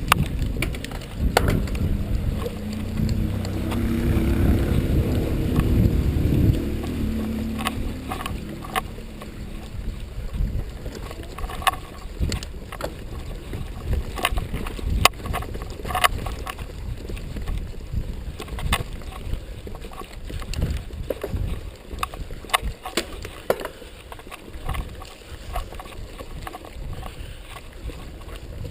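Mountain bike ridden over rough dirt trail: frequent rattles and knocks from the bike, over a rumble of wind on the microphone that is heaviest in the first several seconds.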